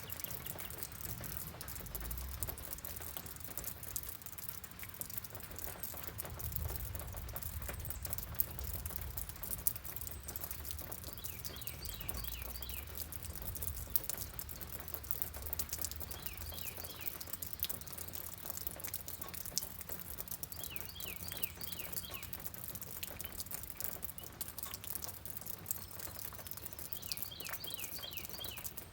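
Steady rain pattering, with a low rumble in the first half. A bird calls four times in short runs of rapid chirps, about five seconds apart, from about a third of the way in.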